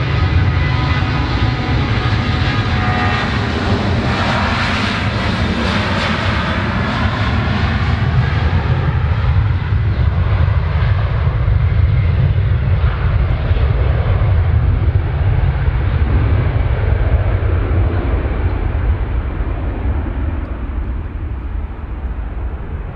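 Jet airliner's engines, loud and sustained: a deep rumble with a high whine. The whine and the hiss fade gradually over the second half while the rumble goes on.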